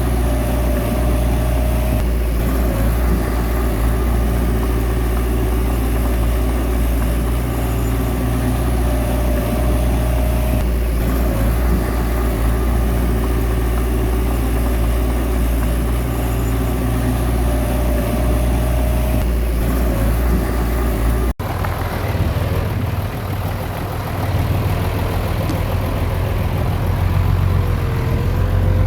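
Heavy diesel engine of earthmoving machinery running steadily, with a thin whine that comes and goes three times. About 21 seconds in, the sound cuts suddenly to a deeper engine sound.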